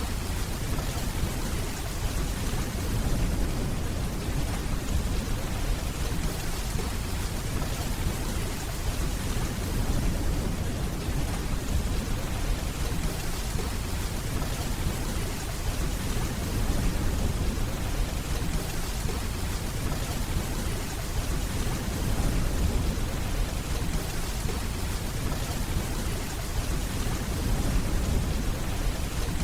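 Steady rainfall with a low, continuous rumble of distant thunder underneath.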